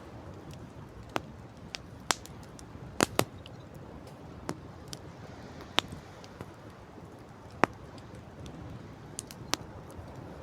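Wood campfire crackling: irregular sharp pops and snaps, about nine loud ones, over a steady background rush.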